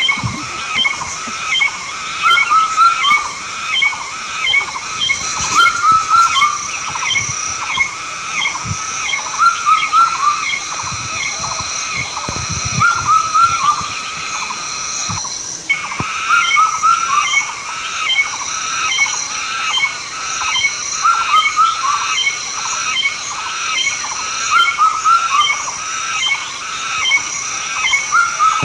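Animal calls: groups of short chirps repeating about every second and a half, over a steady high-pitched whine. The calls break off briefly about fifteen seconds in.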